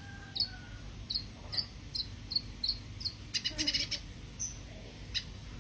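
Cucak kino songbird calling: a string of short high chirps, two or three a second, then a quick rattling burst of notes and a few single chirps, over a steady low hum.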